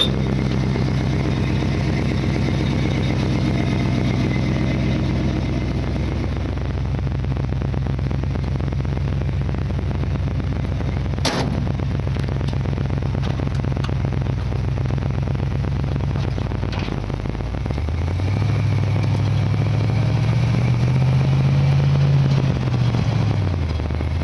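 A 1960 Ford F100 pickup's engine idling steadily, with one sharp bang near the middle. About 18 seconds in it is revved: the pitch rises over a few seconds, then falls back toward idle near the end.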